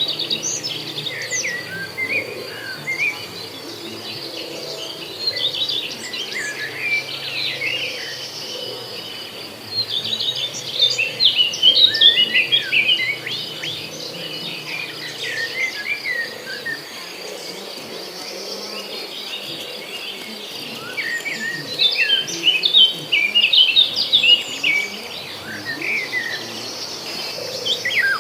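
A songbird chirping in bouts of quick, varied notes, with pauses of a few seconds between them. Under it runs a steady high-pitched insect trill.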